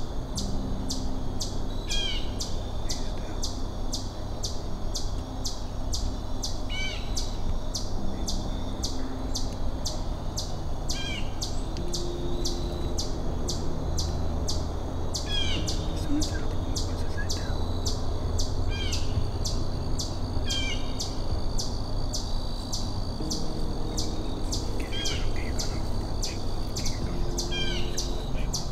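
Woodland ambience: a bird gives short falling chirps every few seconds, over a fast, even, high-pitched pulsing of about two to three beats a second and a steady low rumble.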